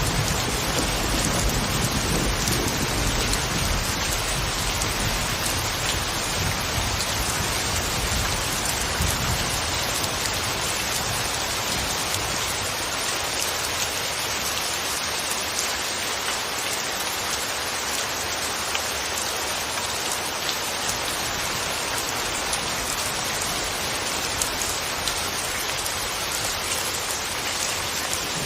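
Steady, soft rain falling, an even hiss of many drops. A low rumble sits under it for the first ten seconds or so and fades away.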